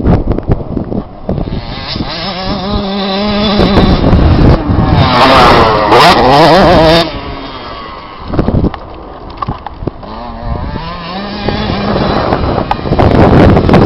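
Motocross bike engine revving hard, climbing to high, wavering revs and then dropping off sharply about halfway through, then building up again near the end.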